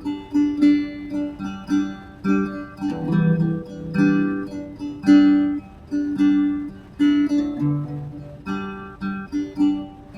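Acoustic guitar playing: plucked and strummed chords in an unhurried rhythm, each note ringing out.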